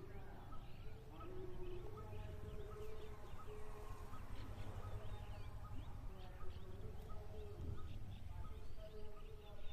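Outdoor rural ambience: many small birds chirping in quick, repeated short calls over a steady low rumble.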